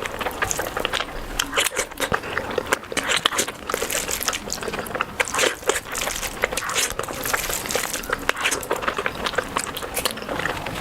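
Close-miked eating of spicy curry and rice: continuous wet chewing and mouth smacking with crisp, crunchy bites, in quick irregular clicks.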